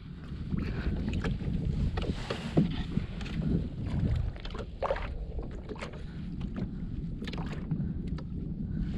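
Low rumble of wind on the microphone aboard a fishing kayak, with scattered small clicks and knocks from the kayak and its tackle.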